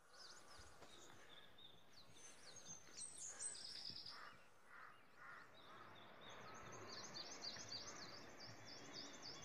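Faint birdsong: several birds chirping, turning into a quick run of repeated high chirps in the second half, over a steady faint hiss.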